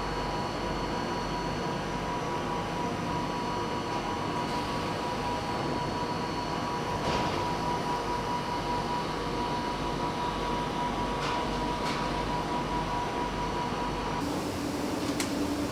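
Steady hum of factory machinery with a constant high whine and a few faint clicks. Near the end the whine stops and a lower steady tone takes over.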